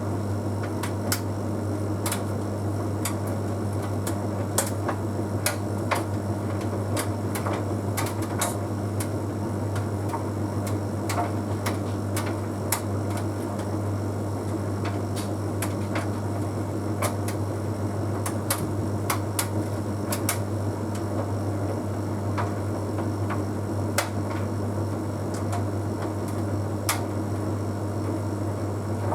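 Bosch Series 6 heat pump tumble dryer running an Easy Care cycle: a steady low hum and whir, with irregular light clicks and taps as the half load tumbles in the drum.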